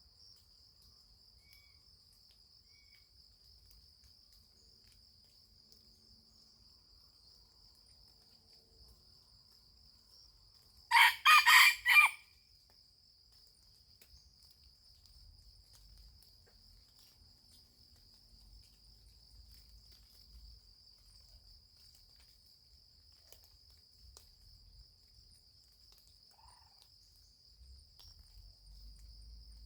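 A rooster crows once, a short crow of about a second, about eleven seconds in. A steady high insect trill runs beneath it.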